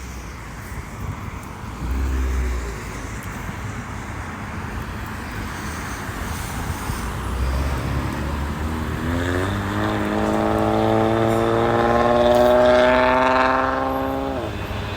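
Jet airliner on approach passing low overhead: a rising rush of engine noise, then a whining set of tones that falls slowly in pitch, gets loudest, and drops sharply as the plane goes by.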